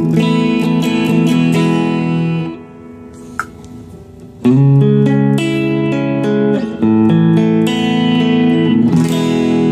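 Electric guitar played through a Joyo American Sound amp-simulator pedal, strumming clean sustained chords. The chords stop for about two seconds near the middle, then resume with changes about once a second.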